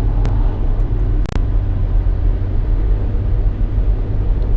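Steady low rumble of a car driving, heard from inside the cabin. Two brief knocks come in the first second and a half.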